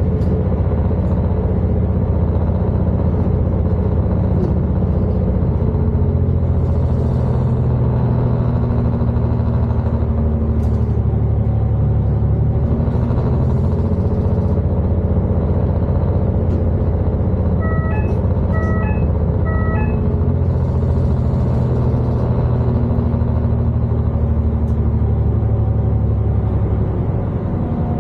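Class 221 Super Voyager diesel-electric tilting train running, a steady low rumble whose engine notes shift in pitch now and then. A short run of electronic beeps sounds a little past halfway.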